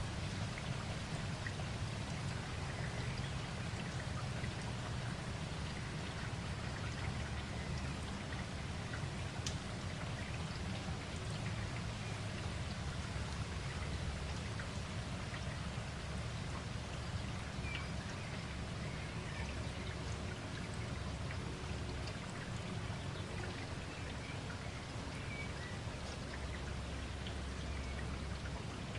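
Steady rain falling, a continuous hiss with a low rumble underneath and scattered individual drops ticking.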